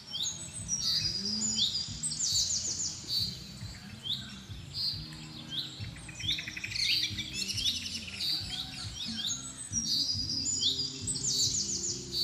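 Birds chirping and calling, with short high chirps that sweep downward and repeat about once a second, over low sustained tones.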